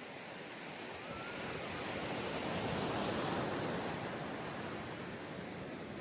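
Ocean surf on a beach: a wave breaks and washes in, swelling to its loudest about halfway through and then easing off.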